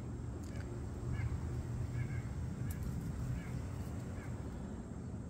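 Outdoor background with a steady low rumble and a bird calling faintly about five times, roughly every two-thirds of a second.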